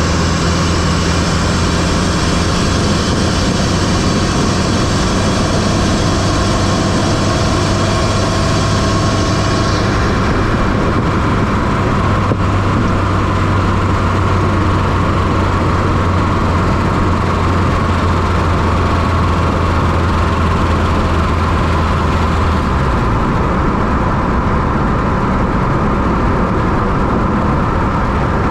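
1995 Fiat Coupé 2.0 16-valve turbo engine running steadily, heard from inside the engine bay. The sound gets duller about ten seconds in, and the deep low hum drops away about three-quarters of the way through.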